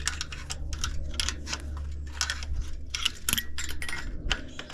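Rapid metallic clinks and scrapes, several a second, as hand tools work on the sheet metal and fittings of an old air-conditioner condenser unit being scrapped. A steady low hum runs underneath.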